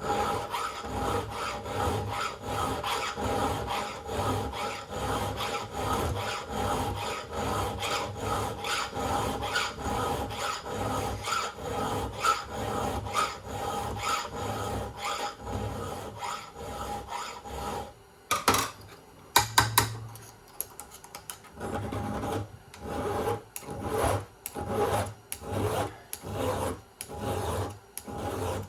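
File rasping across a chainsaw chain's cutter clamped in a sharpening jig, in steady strokes about two a second. About two-thirds of the way through the filing stops for a few sharp clicks, then starts again.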